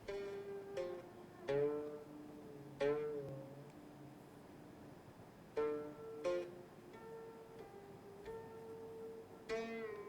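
Background music: a plucked string instrument plays slow, separate notes, some bent in pitch, over held tones.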